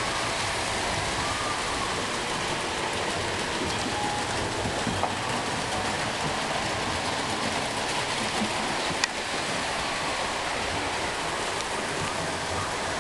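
Model trains running on an HO and O gauge layout: a steady rushing rumble of wheels and motors on the track, with a sharp click about five seconds in and a louder one about nine seconds in.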